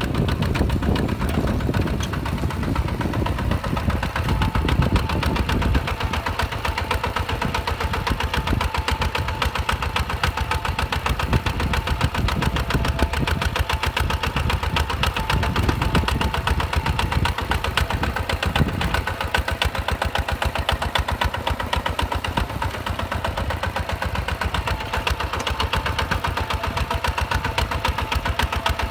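Hinota HG Gold 155 DI direct-injection diesel tractor engine running steadily with a fast, even knocking beat, a heavier low rumble in the first few seconds.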